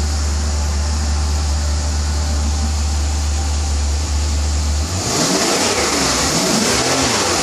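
Maserati coupe V8 on its stock exhaust, idling with a steady, real low note. About five seconds in, the throttle is blipped repeatedly and the pitch rises and falls with the revs.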